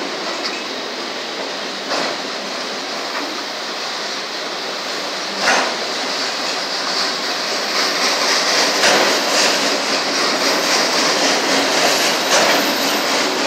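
Autorack freight cars rolling past a grade crossing: a steady rush of steel wheels on rail, broken by a few sharp clanks. It grows a little louder about halfway through.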